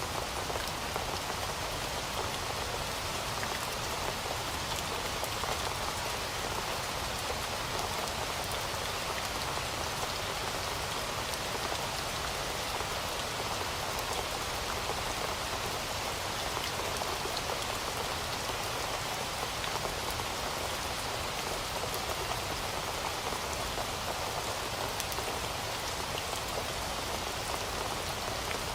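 Heavy rain falling steadily on a surface, a dense even hiss full of fine drop patter that neither swells nor fades.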